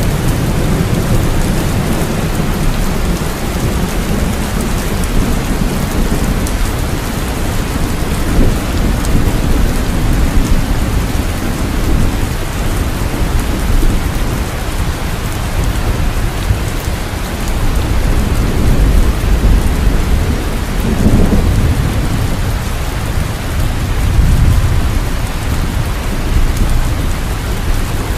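Steady heavy rain with rolling thunder, the low rumble swelling at times, loudest a little after the middle.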